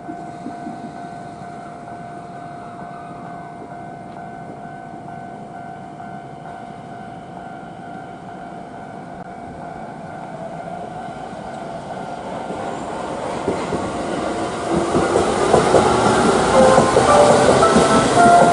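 Electric commuter train pulling into a station. Its running noise grows steadily louder through the second half, and high wheel squeals come in over the last few seconds as it arrives.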